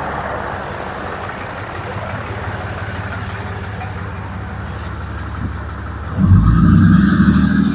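Ram 2500's Cummins diesel engine idling steadily, then revved up hard for about a second and a half near the end. The revs give the power steering the force to press the seized wheel hub out.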